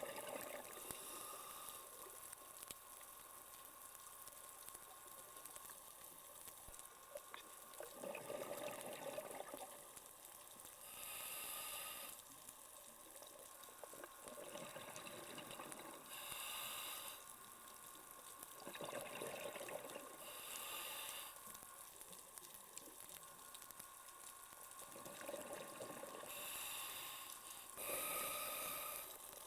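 Scuba diver breathing through a regulator underwater: a short hissing inhale and a longer bubbling exhale, repeating about every five to six seconds.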